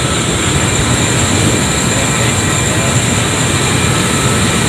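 Steady, loud industrial machinery running, a constant dense noise with faint high steady whines.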